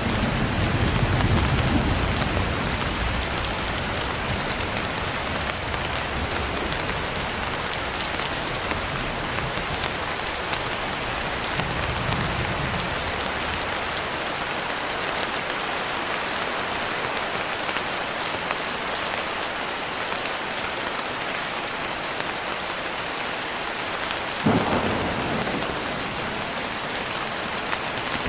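Steady heavy rain hissing, with rolling thunder: a low rumble dying away over the first couple of seconds, a faint rumble around the middle, and a sudden louder clap about 24 seconds in that rumbles off over a few seconds.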